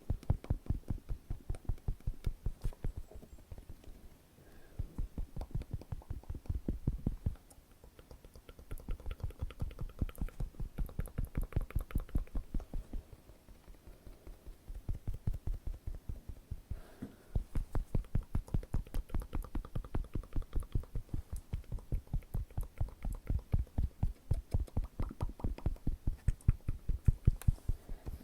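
Rapid fingertip tapping in long runs of quick, even, soft taps, with a few short pauses between runs.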